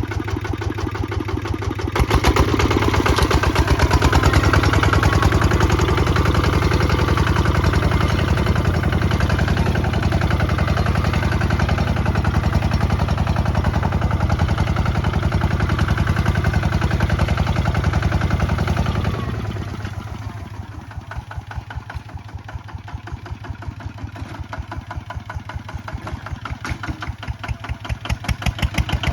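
The single-cylinder diesel engine of a Kubota ZT155 DI walking tractor running with a rapid, even beat. It gets louder about two seconds in, then drops off about two-thirds of the way through to a quieter, slower chug as the revs fall, and picks up again at the very end.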